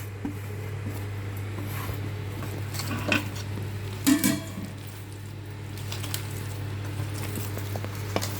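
A few clinks and knocks of kitchen dishes and utensils, the sharpest about three and four seconds in and near the end, over a steady low hum.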